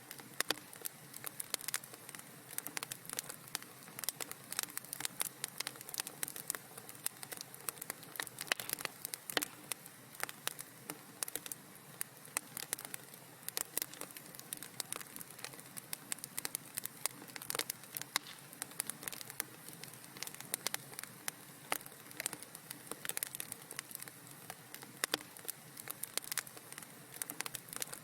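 Wood fire crackling and popping in a fireplace: dense, irregular small snaps over a soft steady hiss.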